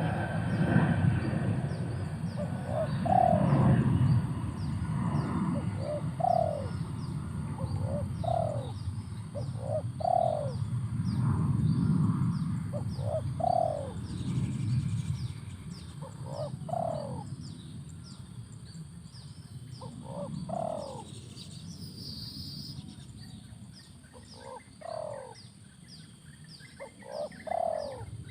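Spotted dove cooing in short repeated phrases every second or two, over a low rumble and a regular high ticking.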